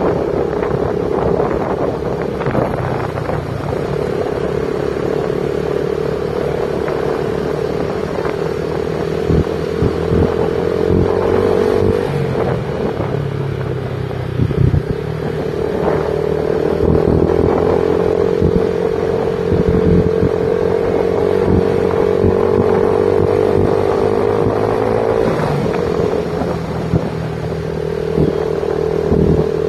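Motorcycle engine running steadily under way, with road noise and a constant engine pitch that dips twice, about twelve seconds in and again about twenty-five seconds in.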